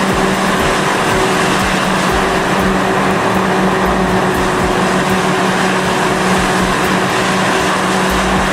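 Heavy machine's diesel engine running steadily with a constant low hum, amid a loud, even rush of noise.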